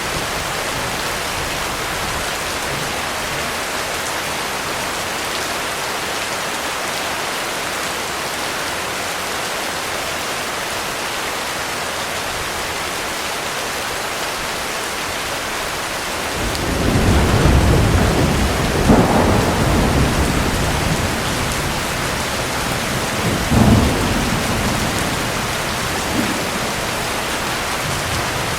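Heavy rain falling steadily. About 16 seconds in, a long roll of thunder rumbles in and builds for a few seconds, a sharper thunderclap follows about seven seconds later, and then the rumble fades back under the rain.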